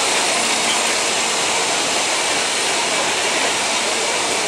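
Neral–Matheran narrow-gauge toy train rolling slowly past on its track, heard as a loud, steady, even noise with no distinct clanks or horn.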